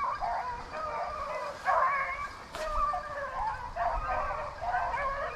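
A pack of rabbit hounds baying together on a rabbit's trail, many dogs' voices overlapping in a continuous chorus.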